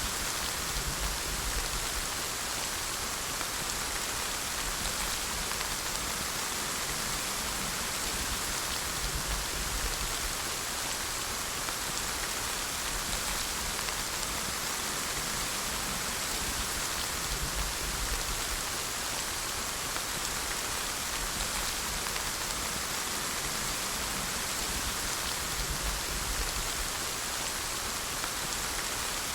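Steady, even rainfall: a dense hiss of many drops on a surface, with no breaks.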